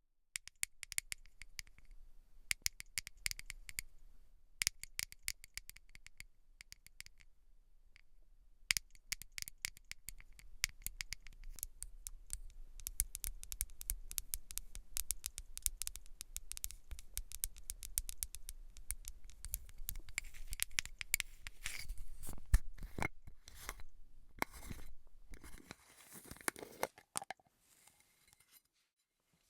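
Crackly scratching through hair on a scalp: a dense run of fine clicks that thins out and stops a few seconds before the end.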